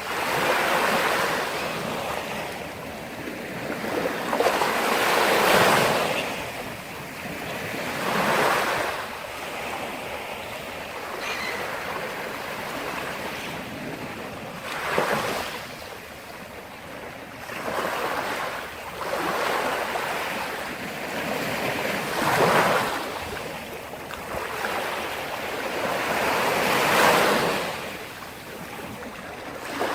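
Sea surf: waves breaking and washing in, rising and falling in slow swells every few seconds.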